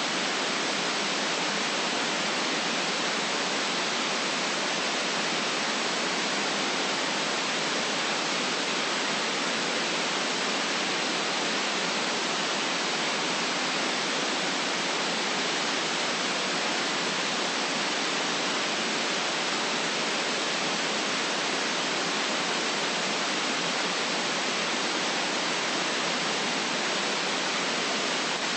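Steady white noise: an even, unchanging hiss, strongest in the upper range, with little deep bass.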